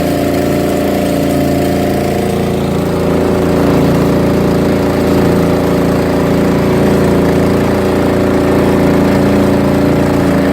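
Fishing boat's engine running steadily, a little louder from about three seconds in.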